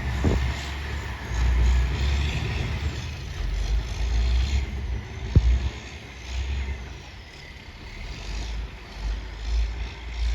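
An 18-wheeler's diesel engine rumbles as the truck tries to climb a snow-covered grade without getting up it, with one sharp knock about five seconds in.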